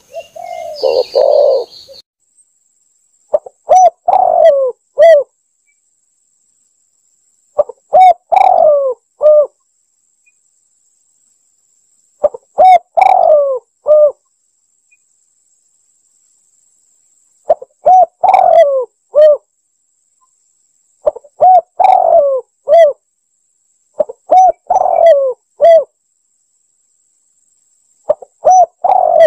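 Spotted dove (tekukur) cooing: about seven phrases of a few notes each, repeated roughly every four seconds with silence between. It is a recorded lure call played to draw doves in.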